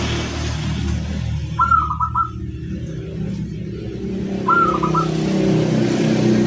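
Zebra dove (perkutut) cooing: two short trilling phrases, about two seconds in and again past four seconds, over a steady low rumble.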